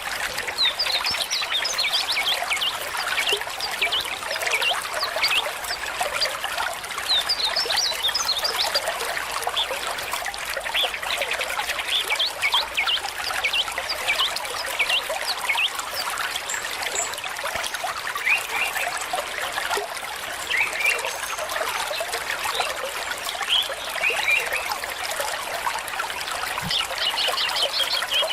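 Small stream trickling and gurgling steadily, with a few brief high chirps now and then.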